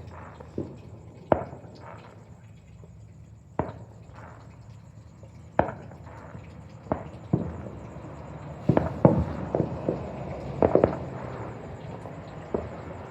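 Fireworks going off: scattered sharp bangs, each trailing off in an echo, with a quick run of several bangs about two-thirds of the way through.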